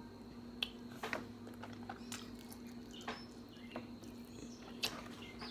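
Quiet eating sounds: a handful of short, sharp clicks and wet mouth noises from a person chewing seafood, over a steady low hum.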